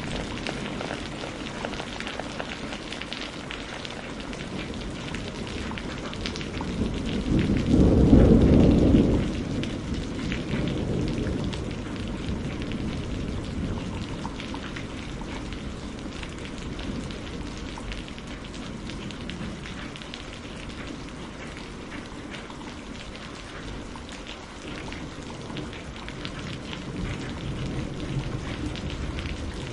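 Steady rain with a low roll of thunder that swells about a quarter of the way in, peaks for a couple of seconds, and rumbles away.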